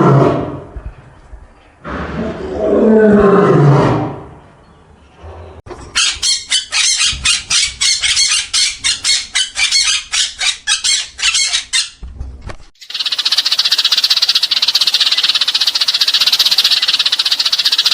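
A run of separate animal calls. First two falling, drawn-out calls, then a fast rhythmic high chirping at about three pulses a second, and then, from about two-thirds of the way in, a steady high buzzing trill like a frog or insect chorus.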